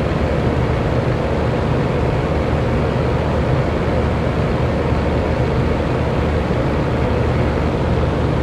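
Electric fan running steadily: an even rush of moving air over a low motor hum, with no change in speed.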